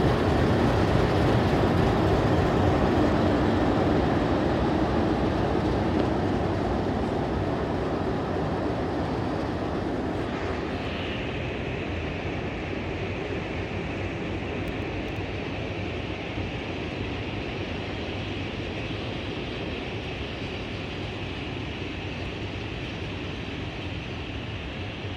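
Two 44 class diesel-electric locomotives hauling a train of heritage carriages away along the platform. The engines are loud at first and fade as they pull away, leaving the carriages rolling past with a steady high whine that joins about ten seconds in.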